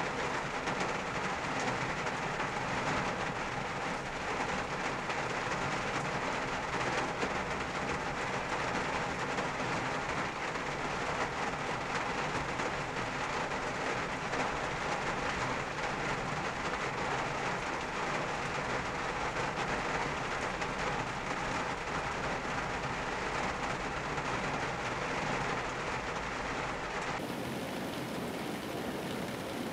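Rain drumming steadily on a car's roof and windscreen, heard from inside the cabin. About 27 seconds in the sound changes abruptly to a lighter, hissier patter with less low rumble, inside a second car.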